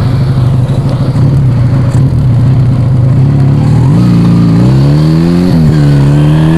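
Yamaha Vega ZR motorcycle engine through an aftermarket Arrow exhaust, running steadily and then revving up about four seconds in. The pitch drops briefly, as at a gear change, and then climbs again.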